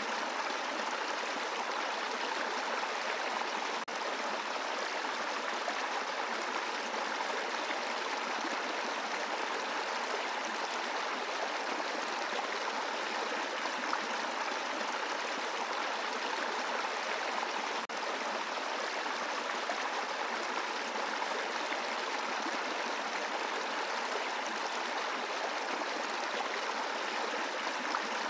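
A brook flowing over a bed of rocks: a steady, even rush of running water, broken by two very brief dips about four seconds in and again about eighteen seconds in.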